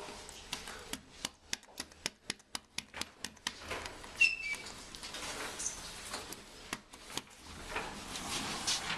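ThyssenKrupp passenger lift setting off upward: a quick run of sharp clicks, about three to four a second for some three seconds, a brief high beep about four seconds in, then a faint steady hiss of the car travelling.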